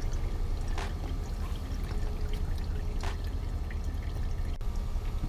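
Old engine oil draining from the oil pan's drain hole into a drain pan: a steady pour, with a brief sharper splash about every two seconds.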